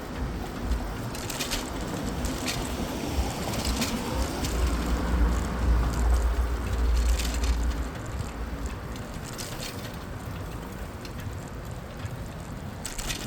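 Street traffic and riding noise heard from a moving bicycle. A heavy low rumble swells for a few seconds in the middle, and a few sharp clicks and rattles are scattered through.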